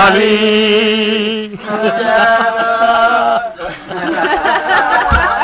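Men singing an Italian song unaccompanied, long held notes with vibrato, giving way to talking and laughter near the end.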